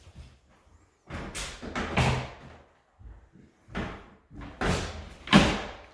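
A series of bumps and clunks as a part is pushed and knocked against its mounting clips, refusing to seat because it is misaligned. The loudest knock comes near the end.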